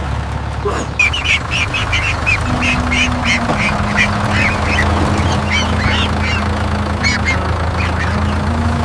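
A duck quacking rapidly, a quick run of short quacks about three a second, over a steady low hum.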